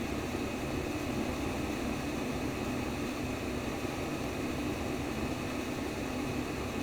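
Simulated womb sound: a steady, deep whooshing noise, even throughout, with no heartbeat thumps standing out.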